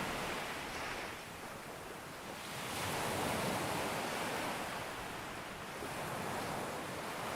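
Ocean surf breaking on a beach: a continuous rush of water that swells and eases, with a louder wave surging in about three seconds in.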